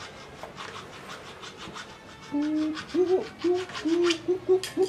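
A bird calls in a run of short, low hooting notes, each bending up and down in pitch, starting about two seconds in. Before it there is a rapid, even, high ticking.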